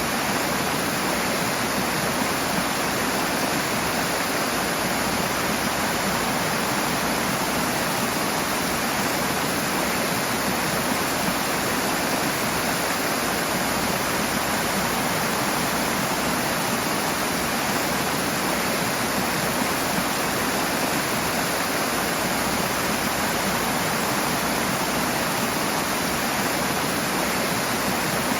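Rushing water, a steady unbroken roar of a fast-flowing stream or cascade.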